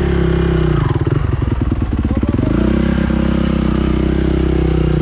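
Dirt bike engine running close by: a quick rev that rises and falls, a low pulsing idle, then revs up about halfway through and holds at a higher steady speed.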